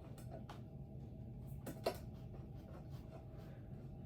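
A few faint, sharp clicks and taps of ceiling fan housing parts being handled during mounting, over a steady low hum.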